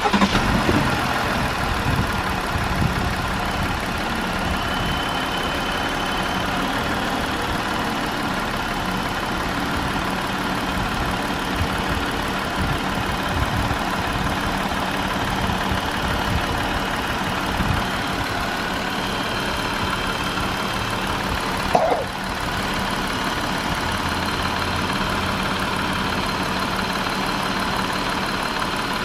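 2020 Jeep Wrangler engine starting and then idling steadily, with an uneven low rattle under the idle. A brief louder sound about two-thirds of the way through.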